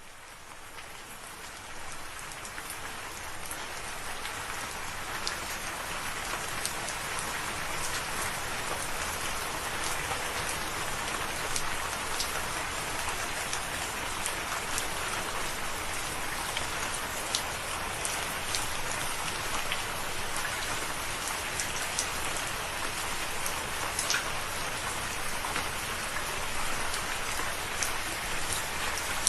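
Steady rain falling, an even hiss with many scattered individual drop ticks, fading in over the first few seconds.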